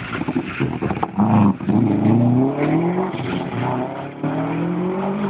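Rally car engine accelerating hard through the gears: a loud burst about a second in, then the pitch climbs, drops back at each of three gear changes, and climbs again.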